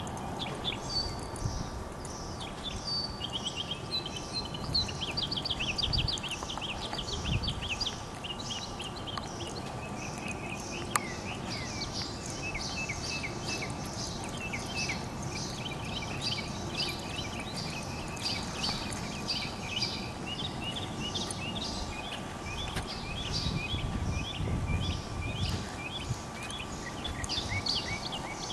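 Birds chirping busily and continuously, with a faint steady hum and low rumbles now and then underneath.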